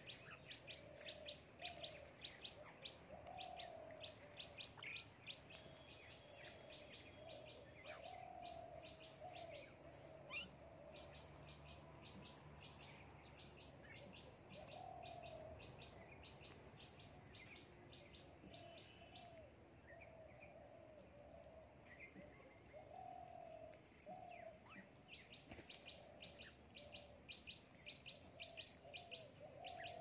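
Birds calling: a fast run of sharp, high chips, several a second, which stops about two-thirds of the way through and starts again near the end, over lower warbling notes repeated every second or two.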